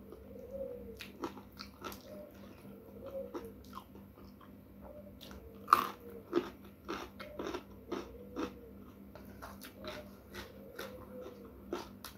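Close-miked mouth sounds of eating: crisp crunching bites and chewing, in short clicks throughout, with one sharp crunch about halfway through.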